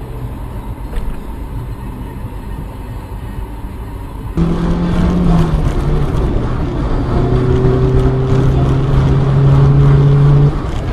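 Car engine and road noise picked up by a dashcam inside a moving car. About four seconds in it cuts abruptly to a louder engine drone that rises slightly in pitch.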